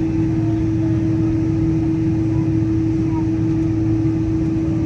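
Steady interior noise of a Boeing 777-200ER cabin while taxiing: engines at idle under a constant low rumble, with one steady humming tone held throughout.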